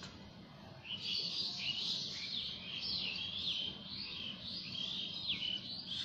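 Birds chirping: a run of quick, high, falling chirps that starts about a second in and keeps on, over a faint steady low hum.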